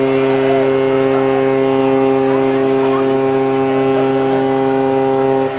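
A ship's horn sounding one long, steady blast that cuts off near the end, with a crowd chattering faintly underneath.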